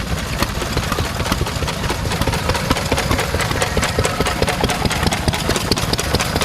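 Vintage stationary engines running, among them a 1952 Lister A engine, giving a steady, dense clatter of rapid engine beats and knocks.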